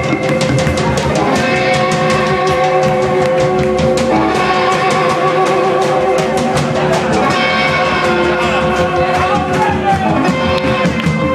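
Loud rock music played live: electric guitars over a steady drum-kit beat, with some singing.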